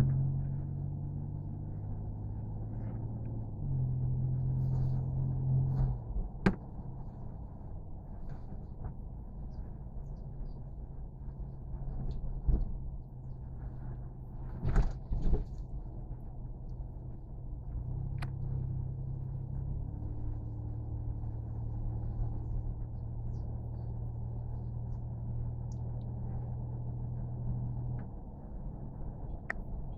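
A steady low engine drone that rises briefly twice, with a few sharp knocks and clunks.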